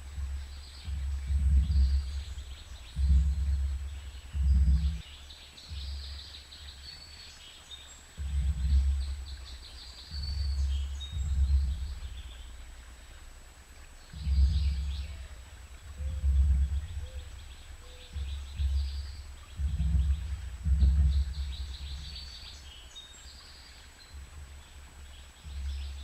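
Small birds chirping and trilling at a feeder, with repeated low gusts of wind buffeting the microphone, which are the loudest sound.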